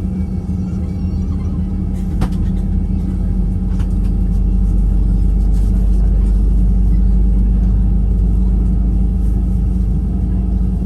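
Airliner engines and cabin rumble heard from inside the passenger cabin, a steady deep rumble with a low hum that grows louder over the first few seconds and then holds, with a couple of small clicks.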